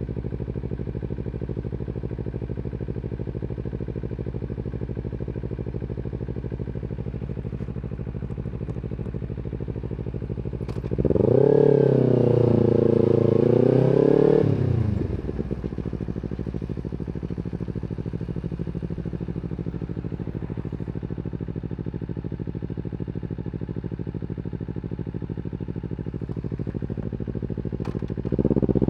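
Kawasaki Z250 parallel-twin engine idling steadily through an aftermarket slip-on exhaust. It is revved up and held for about three seconds near the middle, then drops back to idle. Another rev starts just at the end.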